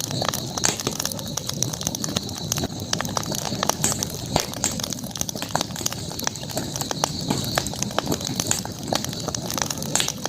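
Wood campfire crackling: irregular sharp pops and snaps over the low, steady rush of the flames, with a steady high-pitched hiss behind them.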